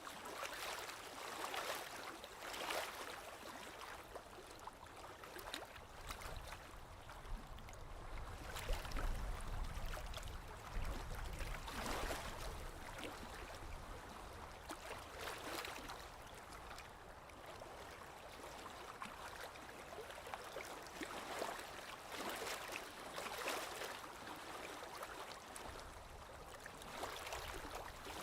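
Small waves lapping against a lakeshore, soft splashes coming in uneven surges every few seconds, with a low rumble for a few seconds midway through.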